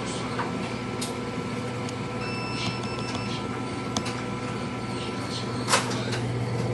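Sciton BBL machine running with a steady electrical hum and whir, with a short high beeping about two to three seconds in and a couple of sharp clicks, the louder one near the end.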